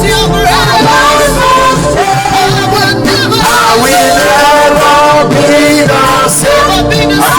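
Live worship music: singers, with a full band, holding long wavering notes.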